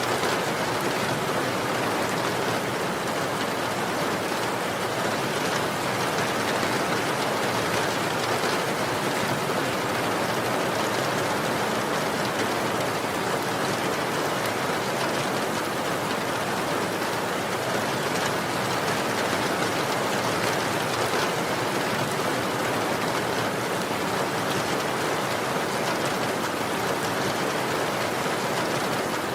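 Steady rain falling, an even unbroken hiss of drops with no change in strength.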